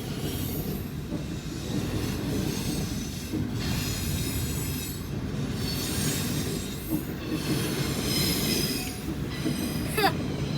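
Freight train rolling past, a steady rumble of wheels on rails with high wheel squeal coming and going above it.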